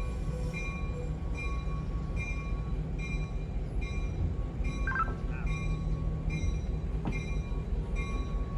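Railroad equipment running in a rail yard: a steady low rumble under a short, high ringing sound repeated about twice a second.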